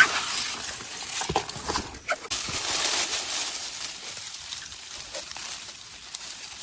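Rustling and handling noise with scattered light knocks, as nestlings and nest material are handled among branches, with a couple of brief faint chirps about one and two seconds in.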